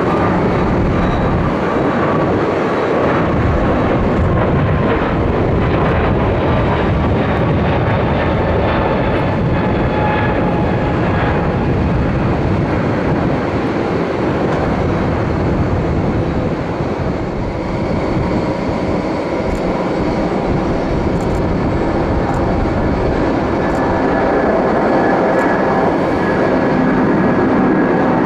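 Jet airliner engines running loud and steady, with whining tones that slowly fall in pitch through the first half as the aircraft passes; the noise swells again near the end.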